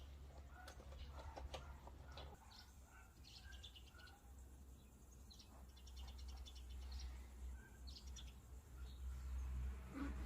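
Birds chirping and trilling faintly in short repeated calls, over a low steady hum.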